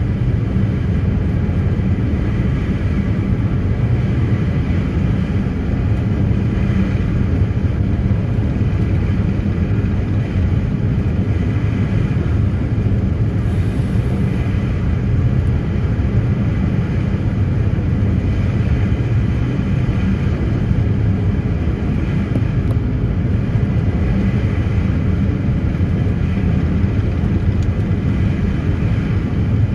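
A passenger ferry's engines running steadily under way: a loud, even low rumble that does not change.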